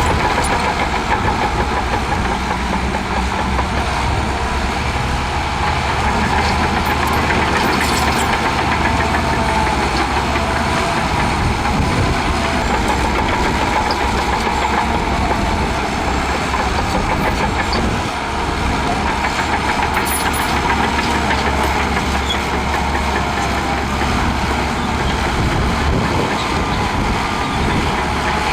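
Shantui DH17C2 crawler bulldozer's diesel engine running steadily, with a constant low rumble and a few faint clicks.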